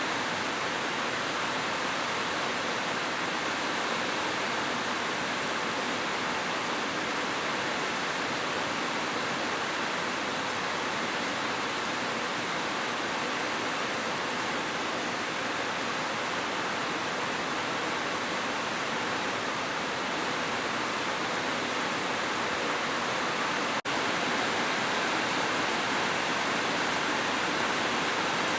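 Heavy rain falling steadily, a dense, even hiss, with a momentary dropout about three-quarters of the way through.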